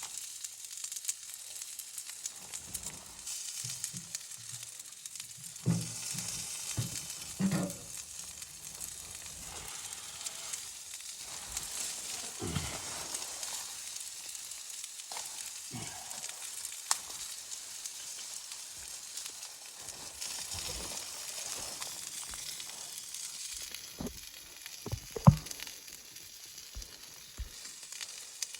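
Food sizzling as it fries in a pan on a wood stove, a steady hiss, with scattered knocks and scrapes of a utensil being stirred and one sharp knock near the end.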